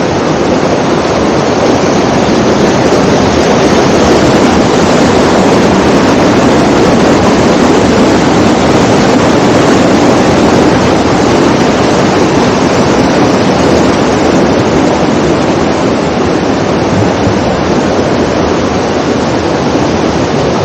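Steady, loud rush of falling water from a waterfall close by.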